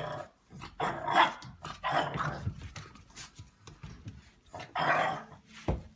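A dog barking, about four barks spaced irregularly, followed by a sharp knock near the end.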